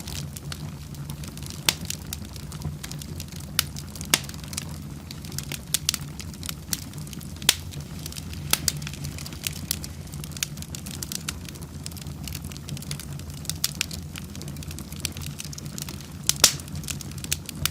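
Wood fire in a fireplace crackling: irregular sharp pops and snaps over a steady low rumble, with a loud cluster of pops about sixteen seconds in.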